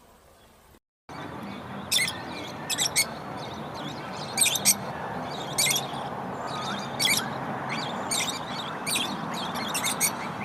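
Birds chirping: short, sharp, high calls repeated irregularly over a steady background hiss. After a faint start the sound drops out briefly about a second in and comes back louder.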